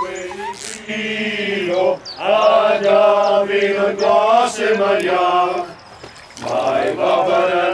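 A person's voice chanting long held notes without words, in several phrases broken by short pauses about two and six seconds in.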